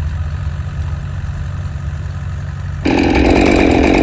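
A low engine idling steadily, then about three seconds in a chainsaw running at speed cuts in abruptly and louder.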